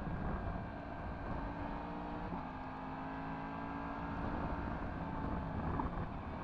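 Yamaha MT-10 SP's crossplane inline-four, through an Akrapovič exhaust, running at a steady cruise, with wind on the microphone. The engine note steps down in pitch once, about two seconds in.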